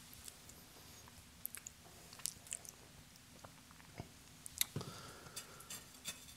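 Faint, close-miked chewing of pizza, with scattered small mouth clicks and a few louder ones a little past halfway.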